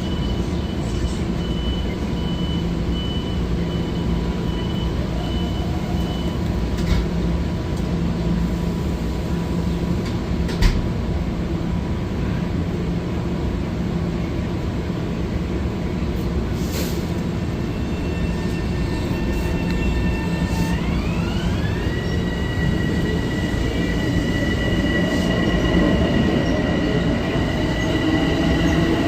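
Metro-North electric train running at the station with a steady low hum. A string of short high beeps sounds over the first few seconds. About two-thirds of the way through, a whine from the train rises in pitch and then holds steady.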